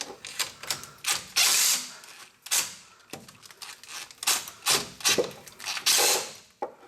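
Irregular metallic clicks, clinks and scrapes of hand tools working on the parking brake cable tensioner as it is tightened, with a couple of longer rattling scrapes.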